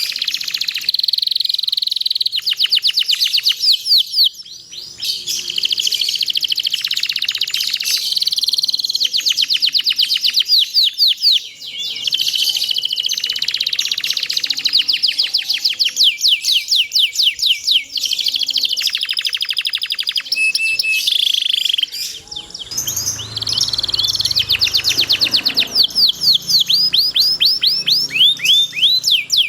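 Domestic canary singing a long song of rapid trills and rolls, fast repeated notes in phrases of several seconds with short breaks between them.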